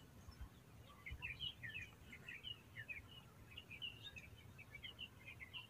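Small birds chirping faintly in a quick, continuous run of short high notes, starting about a second in, over a low steady background rumble.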